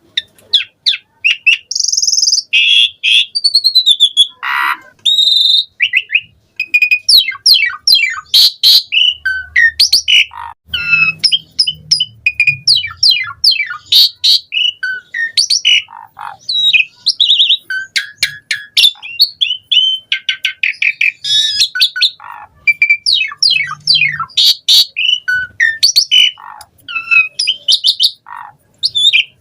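Asian pied starling (jalak suren) singing without pause. Its fast, varied song is a string of sharp chirps, whistles and quick rising and falling notes, filled with mimicked phrases of other birds.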